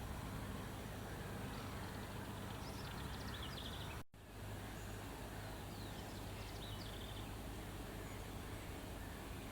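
Faint, short bird chirps, a few scattered calls, over a steady background hiss and low hum. The sound drops out for a moment about four seconds in.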